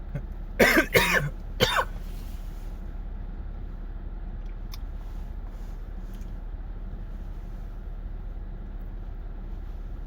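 A person coughing: a quick run of harsh coughs about half a second in and one more near two seconds, followed by a few faint clicks over a steady low hum.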